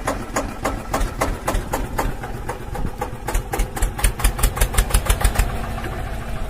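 Mini diesel engine running with a steady train of distinct firing knocks, about four to five a second; the knocks grow louder and sharper for a couple of seconds in the middle, then settle back.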